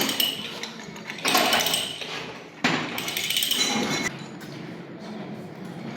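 Hand-tool work in a workshop: two sudden knocks, each followed by a second or so of scraping or rasping, then steadier quieter working noise.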